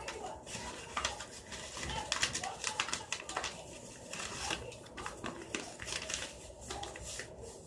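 A sheet of paper being folded and creased by hand: irregular crinkles and sharp rustles as the flaps are pressed down.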